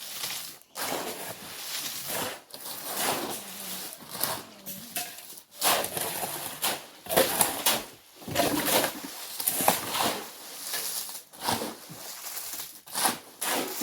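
Shovels scraping and turning concrete mix on a mixing board: a series of noisy scraping strokes at irregular intervals.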